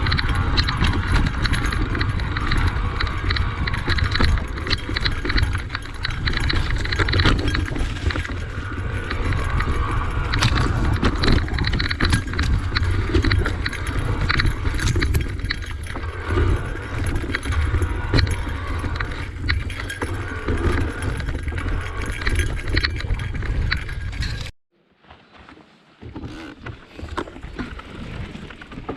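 Cube Reaction Hybrid EX 625 electric mountain bike riding downhill over rough dirt trail: a steady rumble of wind on the microphone over tyre noise and a constant clatter of rattles and knocks from the bike on rocks and ruts. Near the end the sound cuts out suddenly for about a second and a half, then comes back quieter.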